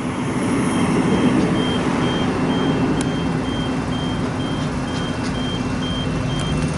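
Backup alarm of a construction vehicle beeping steadily, about two beeps a second, over a low running engine and passing traffic.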